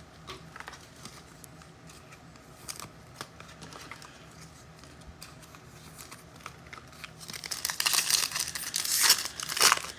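Faint handling clicks, then about seven seconds in a trading-card pack wrapper crinkling and tearing loudly as it is ripped open.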